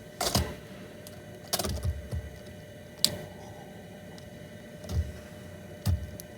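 A few scattered short knocks and rustles, with one sharp click about three seconds in.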